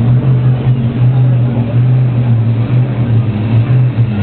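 Monster truck engine running at a loud, deep idle, its low tone wavering unevenly.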